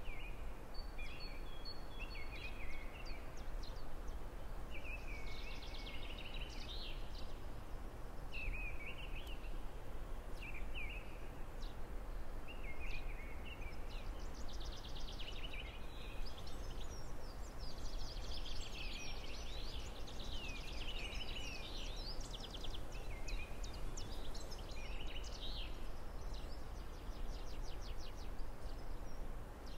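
Songbirds singing, with repeated chirps, warbled phrases and a few fast trills, over a steady low rumble.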